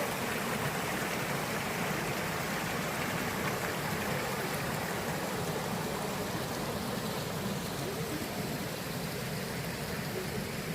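Mountain stream rushing over rocks in a steady, even wash of water noise.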